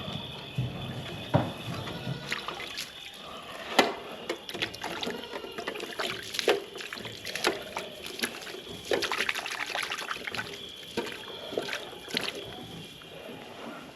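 Water sloshing, trickling and pouring as an animal water bowl is rinsed out and emptied, with scattered sharp knocks and clatters of the bowl.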